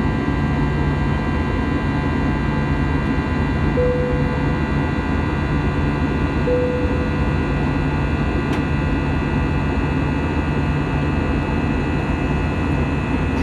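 Airbus A320-200 cabin noise in flight: a steady roar of engines and airflow, with a low hum and several steady whining tones. Two short beeps sound about 4 and 6.5 seconds in.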